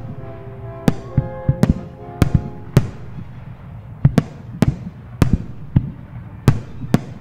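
Aerial firework shells bursting in quick succession, about a dozen sharp bangs at uneven intervals over a low rumble. Show music plays underneath, clearest in the first three seconds.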